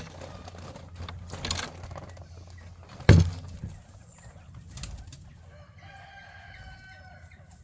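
Chickens clucking, with a sharp loud knock about three seconds in and one long drawn-out chicken call near the end.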